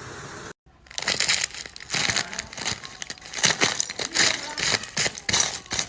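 Crisp, irregular crunching and crackling as something brittle is crushed, starting after a brief silent gap about half a second in.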